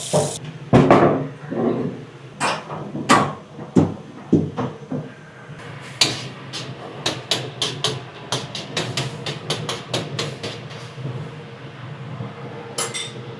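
Household kitchen clatter: irregular knocks and sharp clicks, as of dishes, utensils and cupboards being handled. A quicker run of sharp clicks comes in the middle and second half, over a low steady hum.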